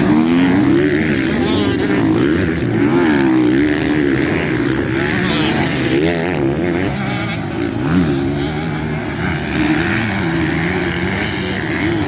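Motocross bike engines revving up and down over and over as they are ridden hard, the pitch rising and falling every second or so, with more than one engine audible at once.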